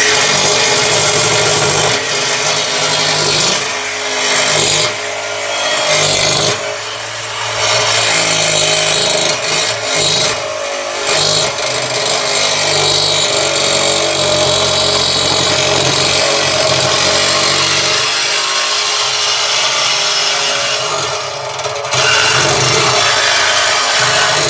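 Power tool cutting through the steel exhaust pipe, running loud and steady with a few short dips in pitch and level as it bites.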